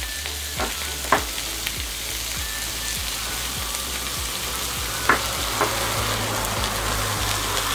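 Steaks, shrimp and sausages sizzling steadily on an aluminium grill plate over a portable gas cartridge stove. A few light clicks and taps sound as the food is turned, about a second in and again around five seconds.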